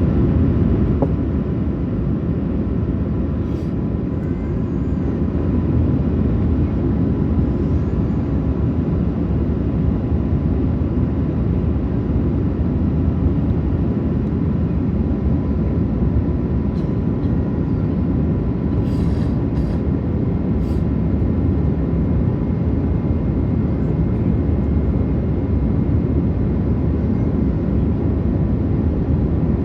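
Airbus A380 cabin noise in flight: the steady, deep roar of the engines and airflow heard from inside the passenger cabin, with a faint steady hum and a few faint clicks about two-thirds of the way through.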